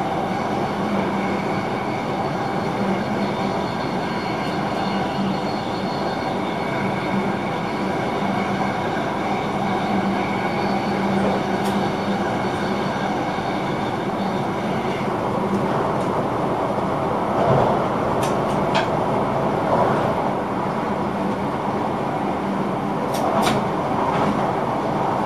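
Electric intercity train running at speed, heard inside the driver's cab: a steady rumble of wheels on rail with a low hum. A few short, sharp clicks come through in the second half.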